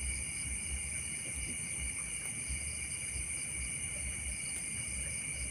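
Steady insect chorus, crickets shrilling in several unbroken high bands, over an uneven low rumble.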